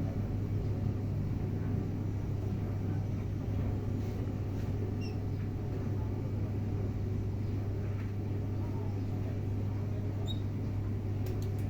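A steady low mechanical hum, like an engine or motor running, with a couple of faint short high chirps about five and ten seconds in.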